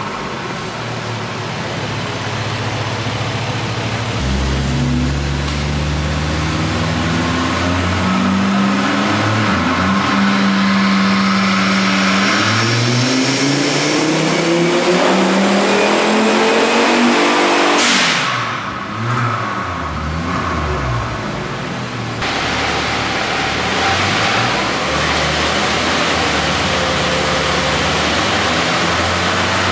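Volvo 850 turbocharged inline-five engine on a chassis dyno, stepping up through the gears and then making one long full-throttle pull whose pitch rises steadily until it cuts off sharply about two-thirds of the way in. The engine then winds down and settles into a steady run.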